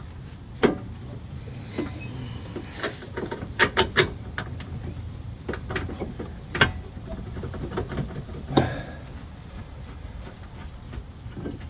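Irregular metal clanks and knocks of tools and suspension parts being handled while a lower control arm is worked into place, about a dozen sharp hits, with a quick cluster of three around the middle.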